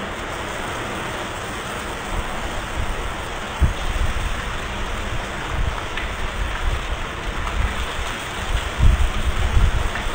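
Heavy rain pouring down in a steady hiss, with irregular low rumbles coming in after about three seconds and growing stronger near the end.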